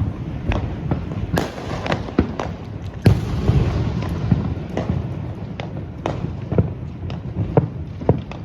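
New Year's fireworks and firecrackers going off all around in rapid, irregular bangs and pops over a constant low rumble, with two louder blasts about one and a half and three seconds in, each trailing a crackle.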